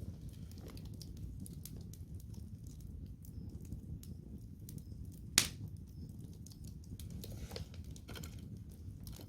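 Wood campfire crackling: scattered small snaps over a steady low noise, with one sharp, loud pop about five and a half seconds in.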